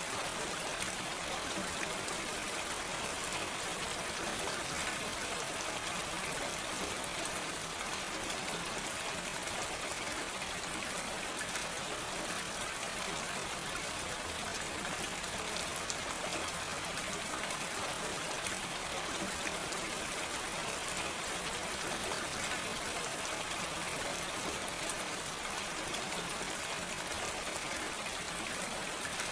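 Steady rain falling, with no thunder: an even hiss of many small drops.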